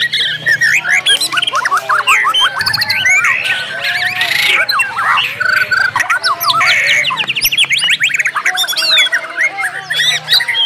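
White-rumped shamas singing loudly and densely, several songs overlapping. The song is a fast, varied run of whistles, chirps and quick trills of repeated notes, the 'isian' mimicry and rapid 'tembakan' phrases used as contest lure song.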